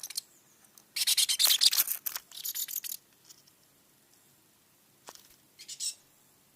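A small bird's feet and beak scratching and tapping on the camera mount right by the microphone: a dense scratchy clatter for about two seconds, then a single tap and a short scrape near the end.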